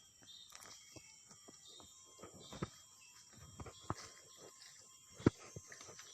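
Scattered light clicks and knocks, a few louder ones and the loudest about five seconds in, over a faint outdoor background.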